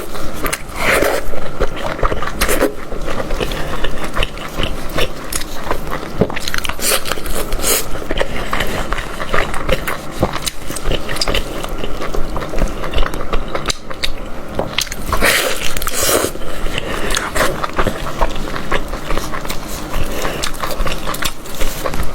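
Close-miked mouth sounds of a person biting, chewing and tearing at meat, with dense, irregular wet clicks and crackles throughout.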